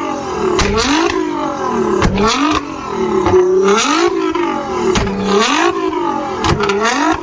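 A sports car engine is revved again and again, its note rising and falling about once a second. Several sharp pops or bangs from the exhaust come between the revs.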